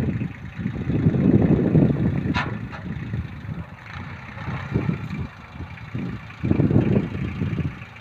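VST Shakti mini tractor's diesel engine running with a rough, uneven rumble that swells twice, with one short sharp click a little past two seconds in.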